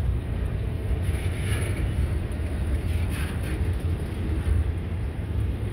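Double-stack intermodal freight train rolling past at close range: a steady low rumble of wheels and well cars on the rails, with two brief higher-pitched swells about a second and a half and three seconds in.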